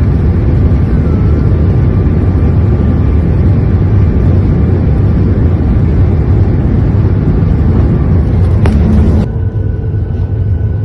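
Loud, steady rumble of a Boeing 737 MAX 8 airliner during a rejected takeoff, with jet engine and rolling noise. It drops suddenly about nine seconds in to a quieter hum with a faint steady tone.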